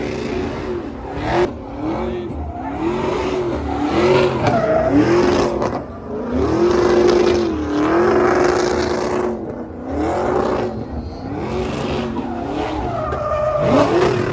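Vehicle engine revved hard over and over, its pitch repeatedly rising and falling.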